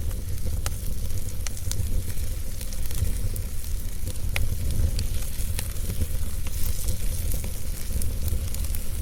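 Wood fire burning with a steady low rumble and hiss, broken by scattered sharp pops and crackles.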